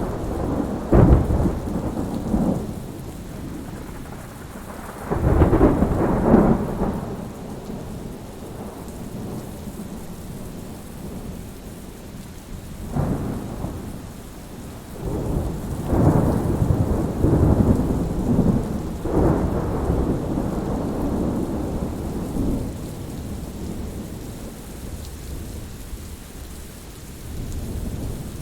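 Thunderstorm: steady rain with thunder rumbling and crackling again and again. The loudest rolls come at the start and about six seconds in, then a long rolling stretch from about fifteen to twenty seconds.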